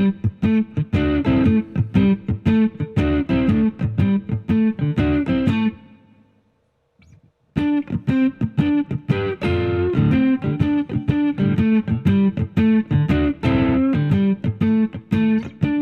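Harley Benton JA-60 Jazzmaster-style electric guitar on its single-coil neck pickup, played through a Nobels ODR Mini overdrive pedal: a busy run of picked notes. About six seconds in the playing stops and the last notes ring out into a second or so of near silence. Then the picking starts again.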